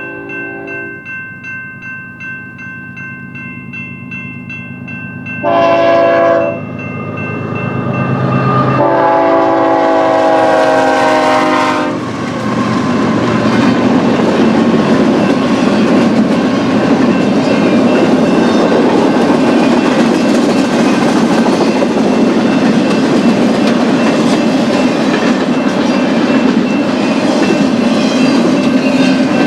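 Westbound BNSF freight train approaching and passing: a bell rings in even strokes while the diesel locomotives close in. The locomotive air horn sounds a short blast about six seconds in and a longer one from about nine to twelve seconds. Then the locomotives and freight cars roll by with loud, steady rail noise and wheel clatter.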